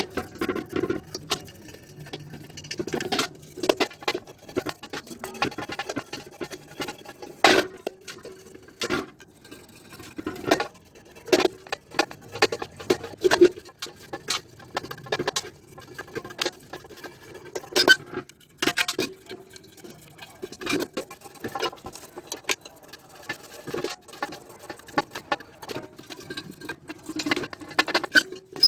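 Irregular clicks, light taps and scraping of hand work on a metal motorcycle engine side cover, the sharpest knocks about 7.5 and 18 seconds in.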